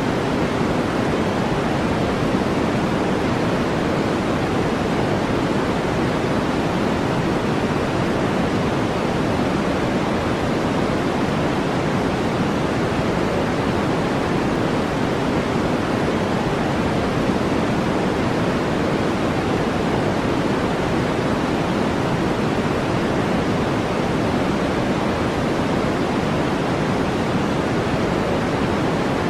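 Steady synthetic noise track, deeper than white noise, with its weight in the low middle and no changes or breaks.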